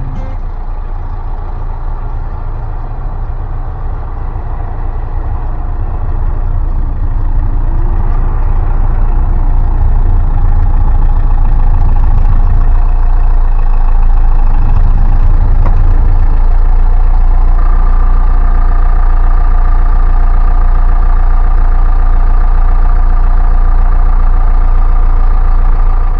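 Tractor engine running steadily while clearing snow, growing louder over the first several seconds and then holding level. A higher steady whine joins a little past halfway.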